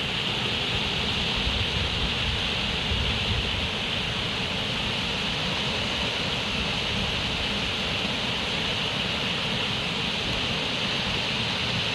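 Running water, a steady even rush with no breaks, its hiss strongest in the upper mid range over a low rumble.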